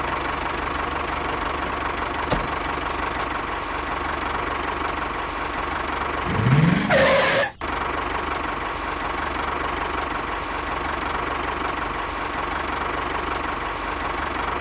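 A motor running steadily, with a rising tone for about a second near the middle, then a sudden break before the steady running resumes.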